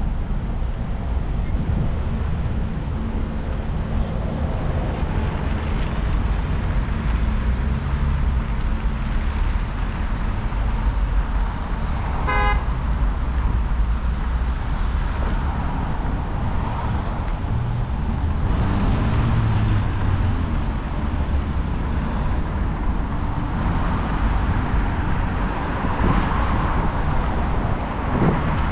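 City street traffic: a steady rumble of passing cars, with one short car-horn toot about halfway through.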